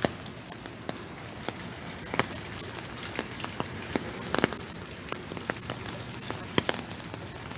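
Rain falling steadily, with big drops ticking sharply and irregularly on a surface close by.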